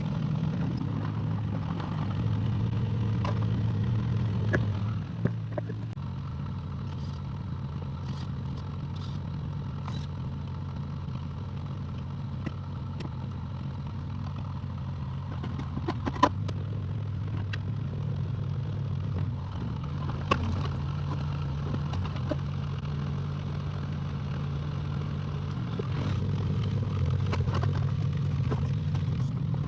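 Excavator engine running steadily, its pitch stepping up and down a little as the load changes, with a few sharp knocks and clanks scattered through.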